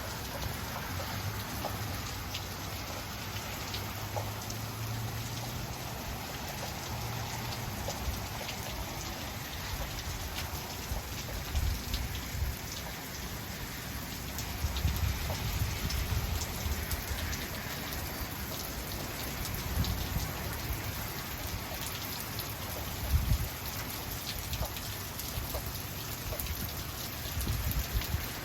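Heavy rain falling steadily, with many separate drops striking surfaces and a few short low thumps along the way.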